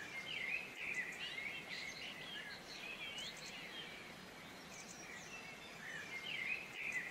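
Several small birds chirping and twittering in quick, overlapping calls over a faint steady background hiss.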